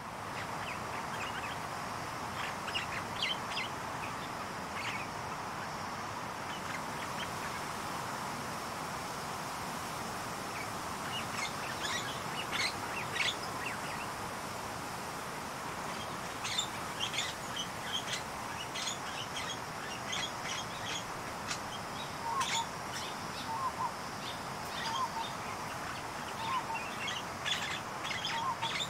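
Many birds chirping and calling over a steady outdoor hiss; from about three-quarters of the way through, a lower, short call repeats about once a second.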